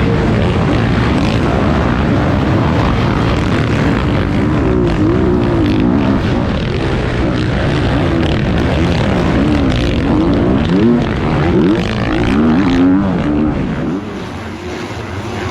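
Motocross bike engines revving, their pitch rising and falling over and over as the throttle opens and closes. The sound drops off suddenly near the end.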